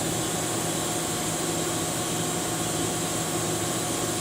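Steady mechanical hum with a constant hiss, holding a few even tones and never changing.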